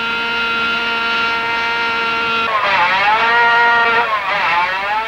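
Kreidler 50cc two-stroke single-cylinder racing motorcycle engine running at high, steady revs, then twice its revs dip sharply and climb back.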